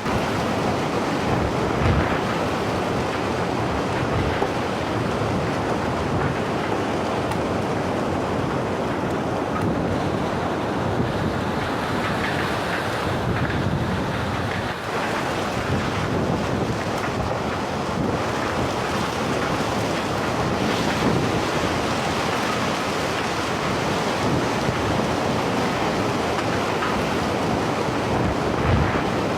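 Steady roar of rushing floodwater, an even, unbroken wash of noise.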